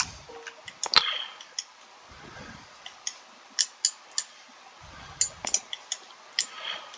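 Irregular clicks of a computer mouse, a few at a time, with the sharpest about a second in.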